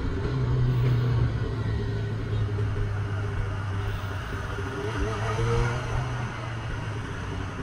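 Honda CB400 Super Four's inline-four engine running steadily at low revs while the bike rolls slowly through traffic, with road and wind noise. A short rise in pitch comes about five seconds in.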